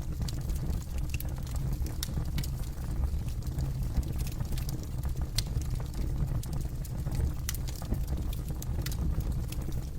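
Campfire burning with a low steady rumble of flames and irregular sharp crackles and pops from the burning wood.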